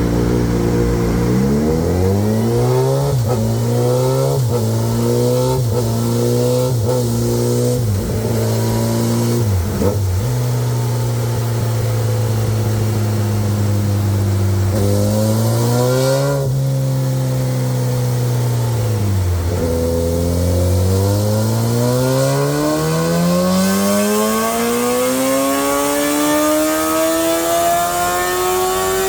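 Kawasaki ZX12R's inline-four engine with a Muzzy aftermarket exhaust running on a dynamometer: engine speed rises and drops back several times in quick succession, holds steady for several seconds, then climbs steadily under load through the last nine seconds or so.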